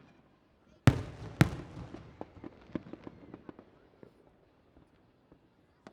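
Aerial fireworks: two loud bangs about half a second apart, about a second in, followed by a spray of smaller crackling pops that thin out over the next few seconds.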